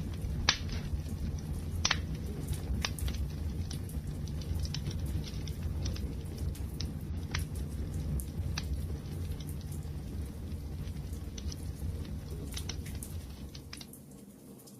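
Wood fire burning: a steady low rumble with scattered crackles and sharp pops, several of them louder in the first few seconds. Near the end the sound drops away briefly before coming back.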